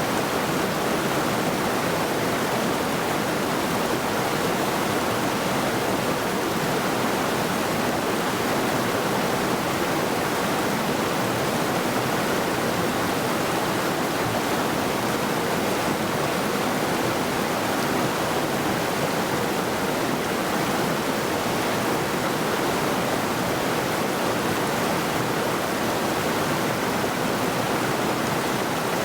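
Middle Saluda River rushing over rocks: a steady, even rush of flowing water.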